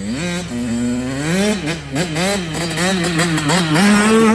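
Small dirt bike engine revving with repeated throttle blips, the pitch rising and dipping several times, then climbing once more and starting to fall away at the very end.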